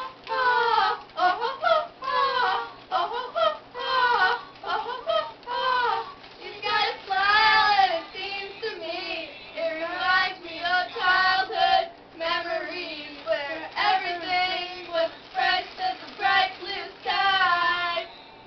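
One voice singing high, held notes without accompaniment, in phrases with a wavering pitch.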